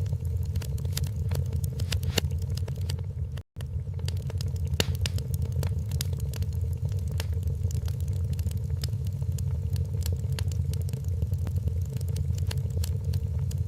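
Wood fire in a fireplace crackling, with frequent irregular sharp pops and snaps over a steady low rumble. The sound cuts out completely for a split second about three and a half seconds in.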